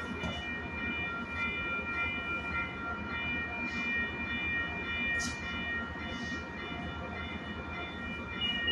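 Metrolink double-deck commuter train standing at the platform with its equipment running: a steady low rumble under a constant high whine of several fixed tones. Just before the end a high, repeating beep starts.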